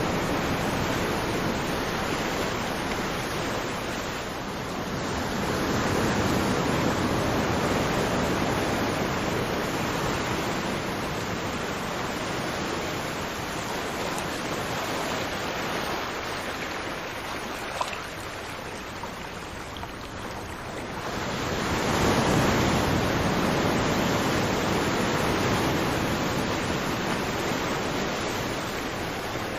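Ocean surf washing onto a beach, waves swelling in and drawing back. A bigger wave builds a little after two-thirds of the way through.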